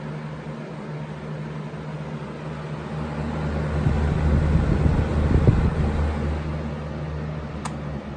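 20-inch box fan with a three-speed PSC motor running on medium: a steady motor hum under a rush of turbulent air, which the restrictive grilles make noisier. The air noise swells into a louder low rumble in the middle, and a single click comes near the end.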